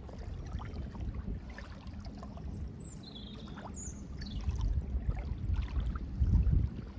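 Lake-shore ambience: water lapping with a low, uneven rumble that swells near the end. A few short, high bird chirps come in around the middle.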